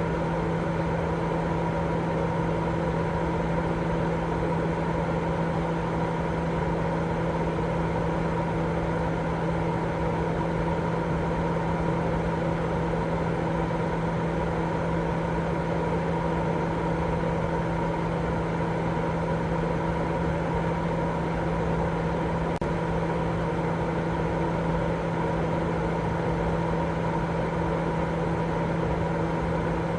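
Continuous white-noise sleep sound: a steady, unchanging drone weighted toward the low and middle range, with a constant hum running through it.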